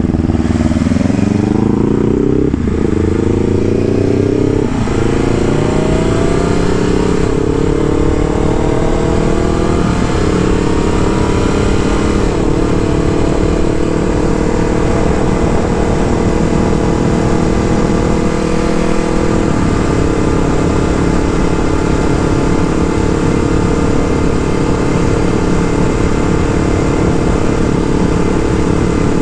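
Motorcycle engine accelerating up through the gears, its pitch climbing and then dropping at each upshift about 2.5, 5 and 10 seconds in, then running at a steady pitch at cruising speed, with one more brief break near 20 seconds. Steady wind rush underneath.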